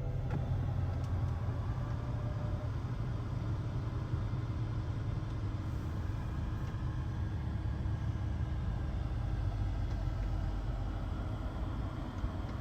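BMW 760Li's V12 engine idling with a steady low rumble. This is the engine noise the owner suspects points to a fault but cannot identify.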